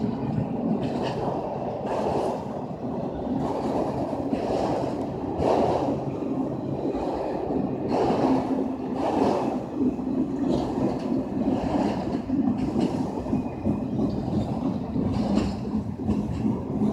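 A train rolling by: a steady rumble with irregular knocks and clatter from the wheels and cars.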